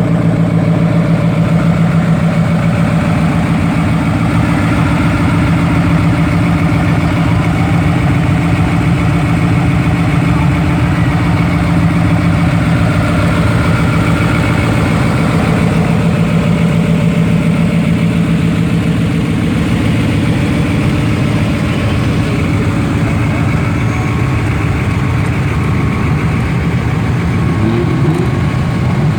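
Diesel pickup truck engine idling steadily.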